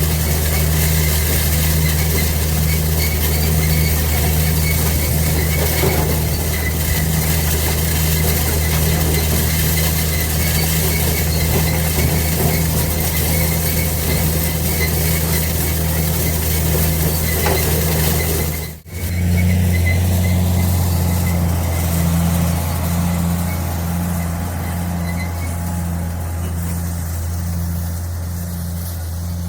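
White 2-135 diesel tractor engine running steadily under load, with a low, even drone. About two-thirds of the way through, the sound drops out for a moment and the same engine drone resumes.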